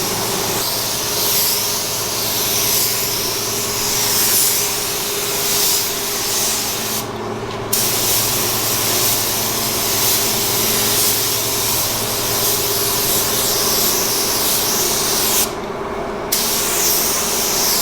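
Paint spray gun hissing steadily as it lays on base coat, cutting out twice briefly between passes, over a steady low hum.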